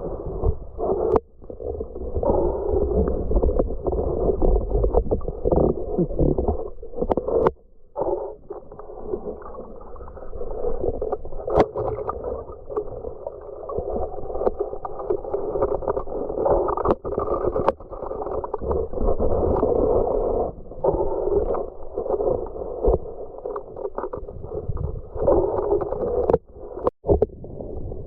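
Muffled rushing river water with a low rumble, broken by scattered sharp clicks and knocks.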